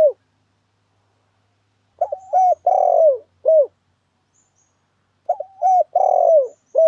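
Spotted dove (tekukur) cooing, a lure call for trapping wild spotted doves. It sings a phrase of a few short coos, a longer coo that falls in pitch and one short closing coo. The phrase repeats about every three seconds, with two full phrases here.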